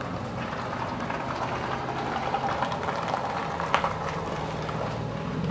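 A truck passing on the road, its tyres giving steady road noise that sounds like studded tyres.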